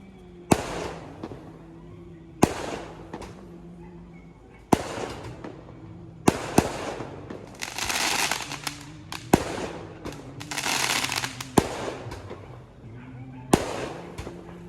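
Firecrackers bursting, with about eight sharp single bangs roughly every two seconds. Twice, in the middle stretch, a longer hissing, crackling burst lasts about a second.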